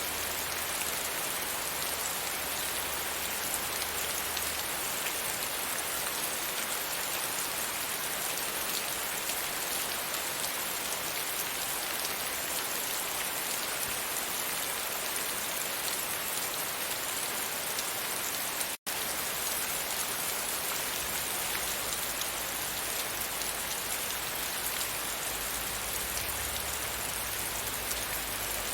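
Steady rain falling against a window. The sound cuts out for an instant about two-thirds of the way through, then carries on unchanged.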